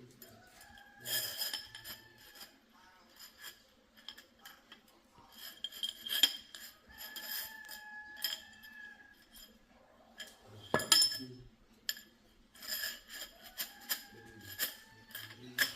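Metal parts and tools clinking and knocking in clusters, with one sharper strike about eleven seconds in. Three times a short ringing tone hangs on after the clinks.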